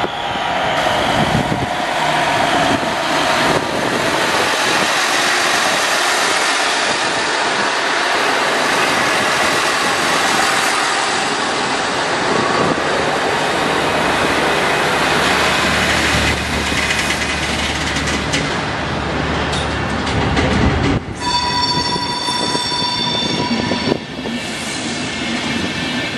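NEG twin diesel railcar VT 71 pulling away with its coupled coaches rolling past close by: engine running and wheels clattering on the rails. Near the end a steady high tone sounds for about three seconds.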